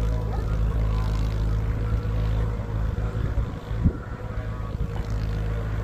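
New Holland 3032 tractor's diesel engine running steadily, with a single sharp knock just before four seconds in.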